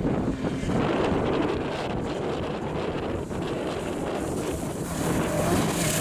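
Wind buffeting the microphone, with a rally car's engine heard faintly under it. Near the end the engine note becomes steadier and louder as the car comes closer.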